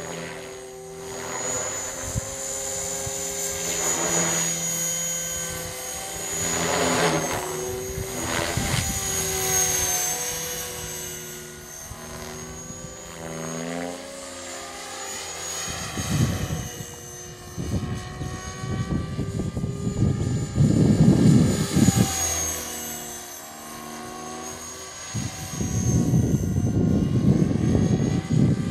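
CopterX 500 electric RC helicopter flying fast passes, its rotor and motor whine rising and falling in pitch as it moves. Strong wind gusts rumble on the microphone in two long stretches in the second half.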